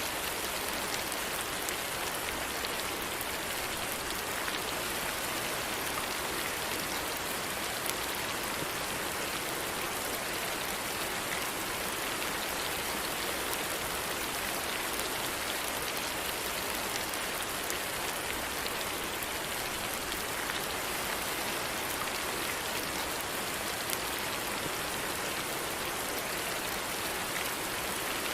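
Steady rain falling, a dense even hiss with faint scattered drop taps.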